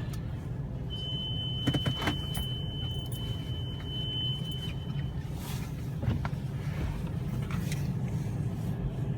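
Car engine idling, heard from inside the cabin as a steady low hum, with a few light knocks and a steady high tone lasting about four seconds from about a second in.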